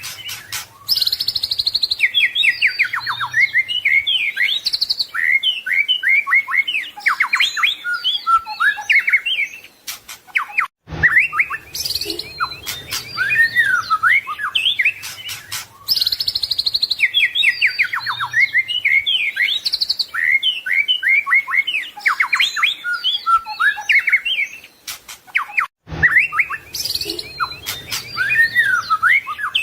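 White-rumped shama (murai batu) singing a loud, continuous, varied song of rapid whistles, trills and chattering phrases. The same passage repeats about every 15 seconds, broken by a brief gap each time, as in a looped recording.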